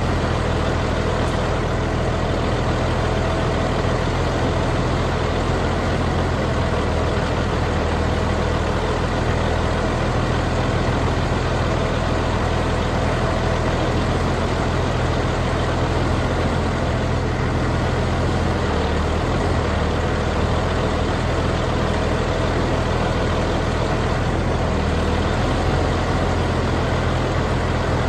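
Heavy diesel engine running steadily at a low, even speed, with slight wavers in its pitch.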